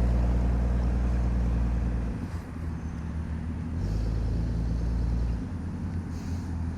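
Car engines running at low speed with a deep, steady drone. The drone drops away about two seconds in, comes back about a second and a half later, and fades again near the end.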